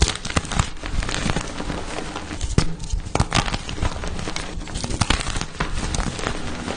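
Blocks of pasted gym chalk being crushed and crumbled, a dense run of crunches and crackles with sharper cracks scattered through it.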